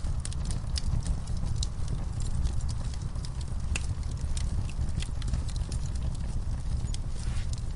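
Wood fire burning in a fireplace: a steady low rumble of flames with irregular sharp crackles and pops of burning wood, several a second.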